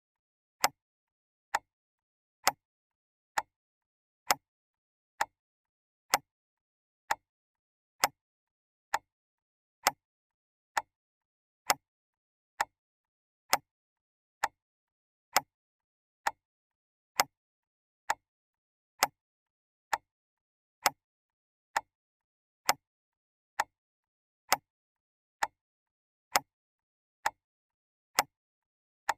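Mechanical clock ticking steadily, a little more than one tick a second, each tick a short sharp click with silence between, the ticks alternating slightly in loudness.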